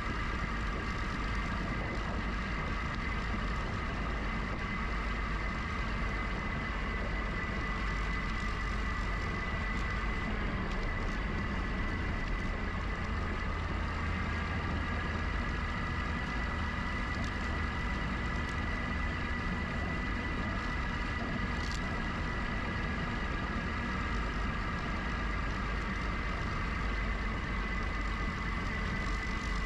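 Steady low rumble of wind and rolling road noise while riding a GoCycle GX electric bike, with a steady high whine from its motor.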